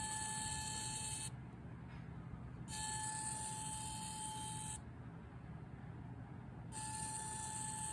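DJI Mini 3 Pro gimbal motor whining in a steady high tone after a crash, a servo-like sound that also sounds kind of like a little vacuum. It comes in spells of about two seconds, three times, with short pauses between. The owner suspects a damaged or loose gimbal connection, and the drone reports an IMU attitude error.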